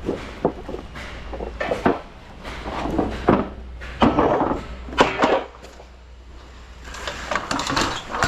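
Clattering knocks and scrapes from gear being handled at the truck, several sharp knocks spaced roughly a second apart, over a low steady engine hum.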